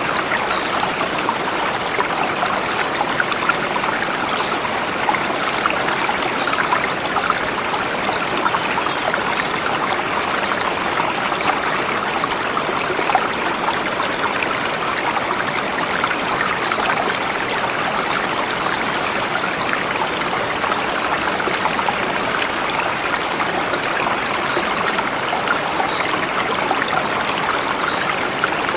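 Forest river flowing over rocks: a steady, unbroken rush of water.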